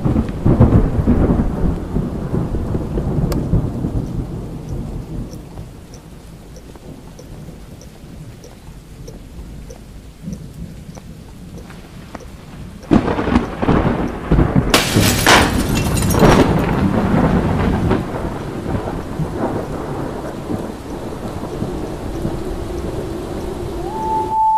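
Thunderstorm with steady rain. A clap of thunder at the start rumbles away over several seconds, and a second, louder crack of thunder comes about 13 s in and rumbles on for a few seconds.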